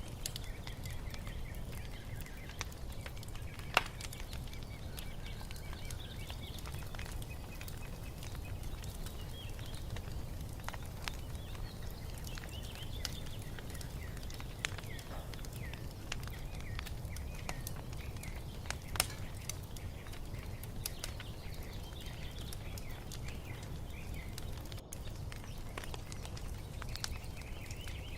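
Wood fire crackling, with scattered sharp pops over a low steady rumble; a loud pop comes about four seconds in and another just before nineteen seconds. Birds chirp faintly throughout.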